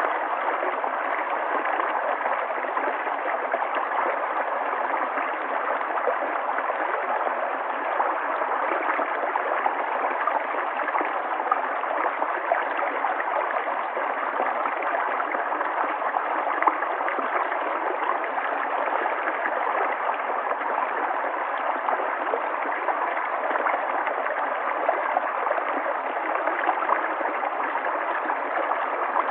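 River water flowing and gurgling steadily over stones.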